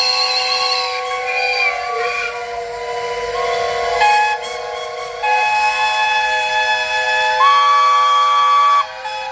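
Whistle pipes playing a tune in held chords, with several notes sounding together and changing every second or so; one high note is held for about a second and a half near the end.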